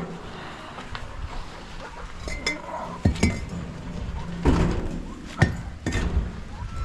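Light metallic clinks, then four sharp knocks spread over about three seconds, as hard objects are handled and knocked together.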